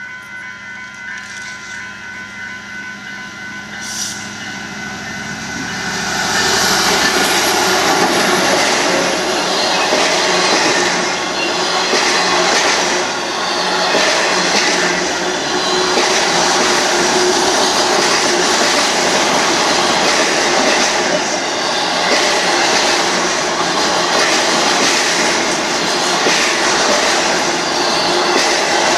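Union Pacific freight train passing. For the first six seconds a steady hum with fixed tones is heard. It then turns into a louder rumble and clatter of freight car wheels on the rails.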